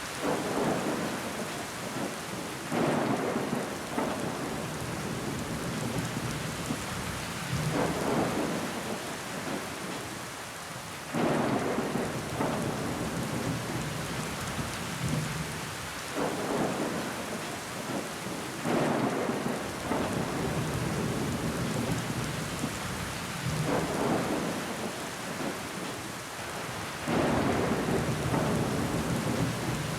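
Steady rain pattering on a window pane, with water running down the glass. The rain swells louder in surges every few seconds.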